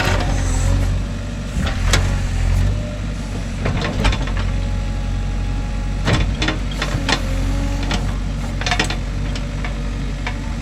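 JCB 3DX backhoe loader's diesel engine running steadily, with sharp metallic clanks and knocks at irregular moments as the machine works in the foundation trench.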